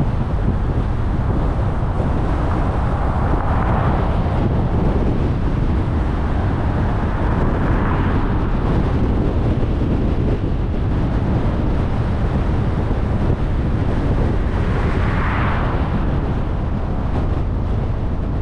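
A car on the move: steady low road and wind rumble picked up by a microphone on the vehicle, with three brief swells of hiss, about four seconds in, about eight seconds in, and near the end.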